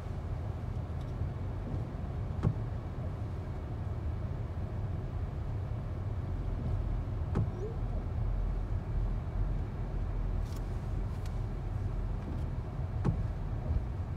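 Steady low rumble of a vehicle, with three short sharp clicks about five seconds apart.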